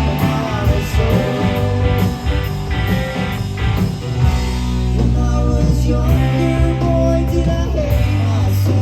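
Rock band playing live: electric guitars, bass and drums, with singing.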